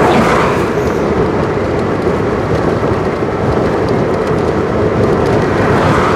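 2004 Cadillac Escalade driving down the road, a steady rumble of engine and road noise with no breaks. The freshly swapped engine is running smoothly.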